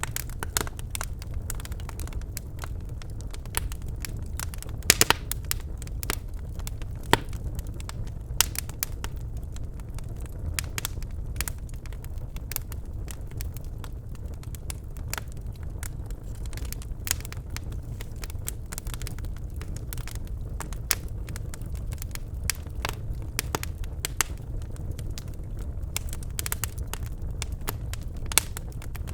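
Birch logs burning in a fireplace: a steady low rumble of flame with irregular crackles and sharp pops, a few louder pops among many small ones.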